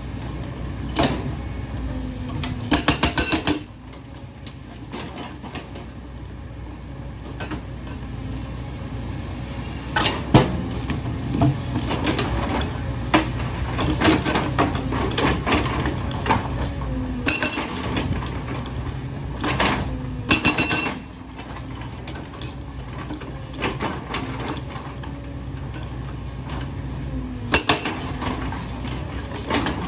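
Hyundai excavator's diesel engine running steadily while the machine works, with sharp metallic clanks and several short bursts of rapid clattering.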